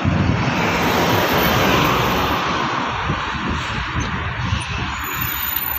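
Jet airliner engine noise, a broad rushing that swells about two seconds in and then eases off, over a low, uneven rumble.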